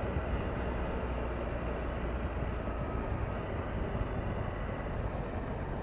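Triumph Tiger 1200's three-cylinder engine running steadily while riding, mixed with wind and road noise.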